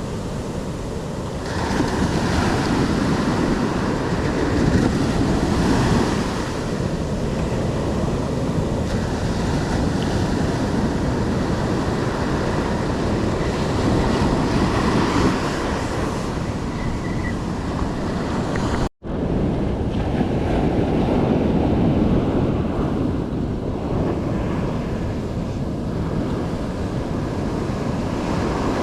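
Surf breaking and washing on a beach, swelling and easing every few seconds, with wind buffeting the microphone. About two-thirds of the way through the sound cuts out for an instant, then carries on slightly duller.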